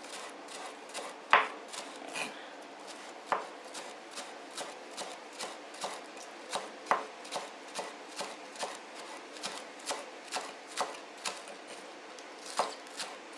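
Kitchen knife chopping green onion on a cutting board: short, sharp strokes at a steady pace of about two to three a second.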